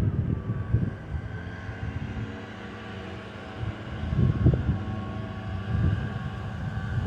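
Steady drone of distant motorized maintenance machinery, with wind buffeting the microphone and the rumble swelling about four seconds in.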